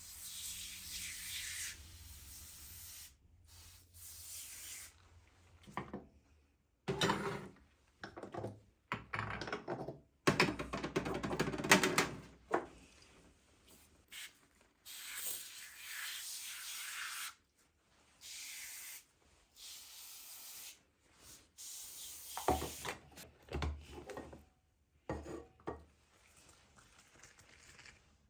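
Kitchen handling sounds: short stretches of scraping, rustling and hissing noise that start and stop abruptly, with the busiest stretch about a third of the way in and a few dull thuds near the end.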